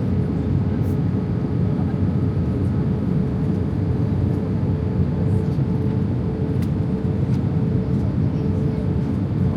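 Steady airliner cabin noise from an Airbus A320: a constant low rumble with a steady hum running through it.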